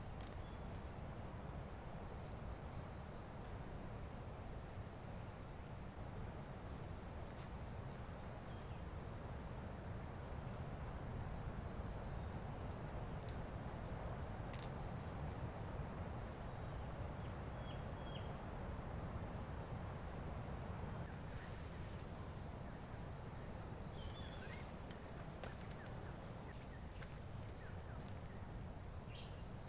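Insects trilling in one steady high tone, over a low rumble and a few faint short chirps.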